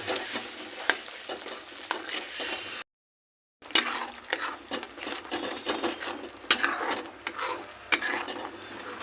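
Spatula stirring chopped tomatoes into onion and ginger-garlic paste frying in hot oil in a kadhai: sizzling, with scrapes and taps of the spatula against the pan. The sound cuts out completely for under a second about three seconds in.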